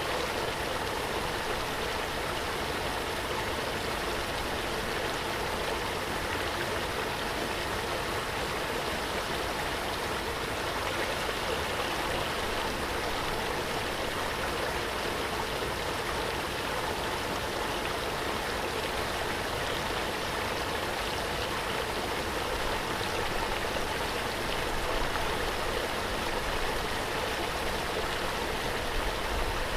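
Waterfall: steady rushing and splashing of falling water, an even noise with no breaks.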